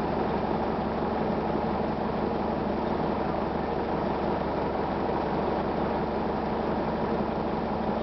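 A 1999 Gillig Phantom transit bus running steadily, its Detroit Diesel Series 50 four-cylinder diesel making an even, unbroken drone.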